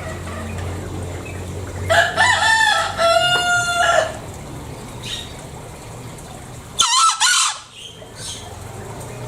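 Green junglefowl (Gallus varius) crowing: one call about two seconds in that lasts about two seconds, then a second, shorter call about seven seconds in.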